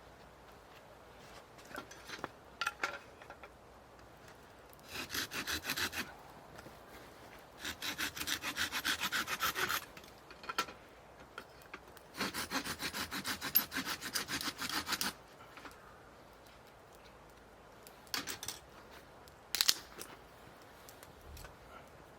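Hand saw cutting wood in three spells of quick back-and-forth strokes, with a few short knocks before and after.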